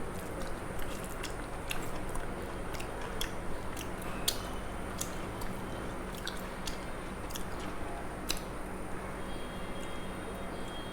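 A person chewing mouthfuls of rice with curry, with frequent small sharp clicks and smacks of eating, over a faint steady hum.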